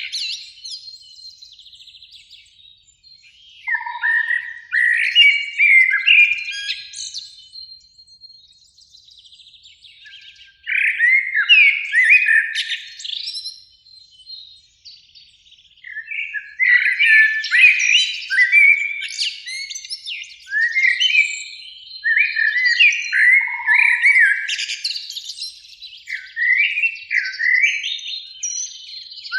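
Common blackbirds singing: bouts of quick warbling phrases, with quieter gaps between them, busier and more continuous in the second half.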